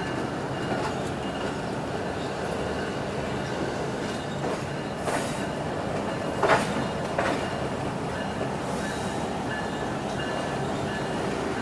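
Passenger train coaches rolling into a station: a steady rumble of wheels on rail with a faint wheel squeal. A few sharp clanks come through, the loudest about six and a half seconds in.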